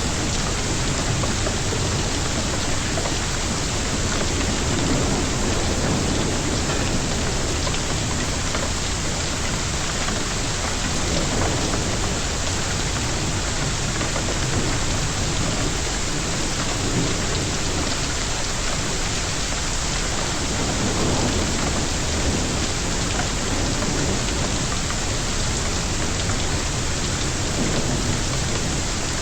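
Hailstorm: a dense, steady downpour of rain and hail pelting surfaces.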